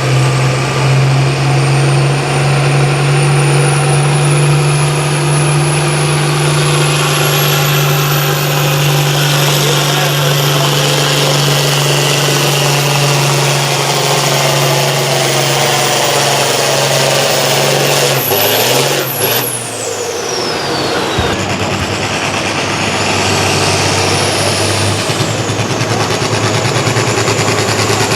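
Turbocharged pulling tractor engine under full load, its turbo whistle climbing steadily for about eighteen seconds. Then the throttle is cut and the whine falls away quickly. A few seconds later the engine blips once more, with a short rise and fall of turbo whine.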